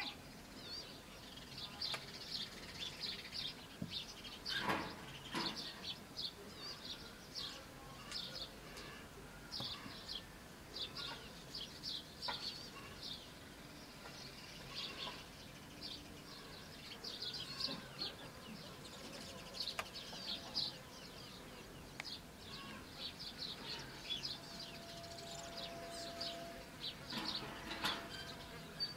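Birds chirping: clusters of short, high chirps come again and again without a break. There is a brief louder rustle or knock about five seconds in.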